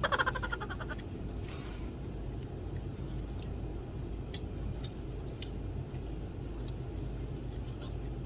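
Someone eating: faint scattered clicks and chewing sounds over a steady low background hum.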